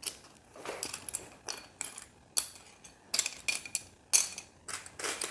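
Small plastic building-set pieces clicking and clattering against each other in irregular bursts as a hand sorts through a pile looking for straight connectors.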